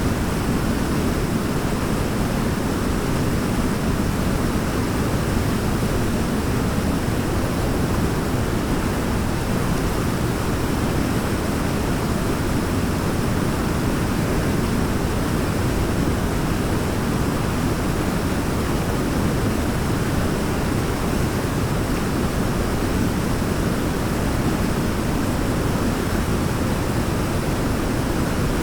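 Waterfall: water pouring in a steady, unbroken rush, deep and low-pitched, with no change in level.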